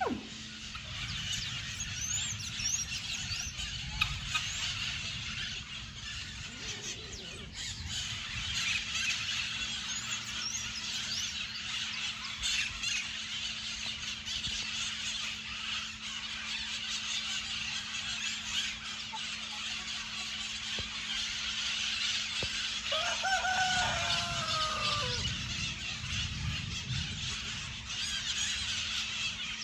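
Maritacas (small parrots) chattering and squawking in a tree with high, dense calls throughout. A rooster crows once, about three-quarters of the way through.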